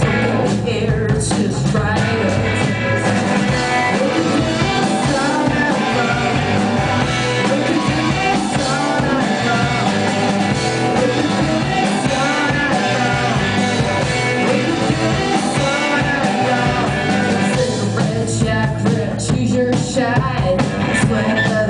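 Rock band playing live, loud and dense, with electric guitar, drums and singing.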